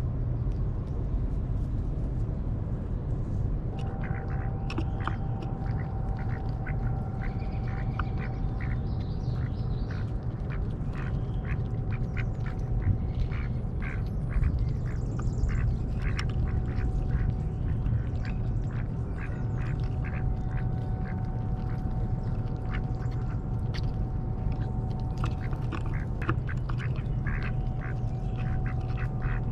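Ducks quacking repeatedly, many short calls from about four seconds in, over a steady low rumble.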